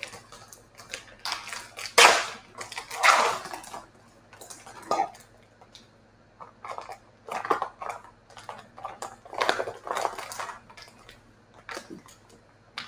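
Packaging of IV supplies crinkling and rustling as it is handled and opened, in irregular bursts that are loudest about two and three seconds in.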